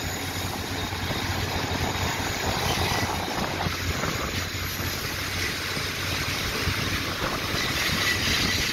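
A passenger train running slowly, heard from an open coach window: a steady rumble with a low hum underneath.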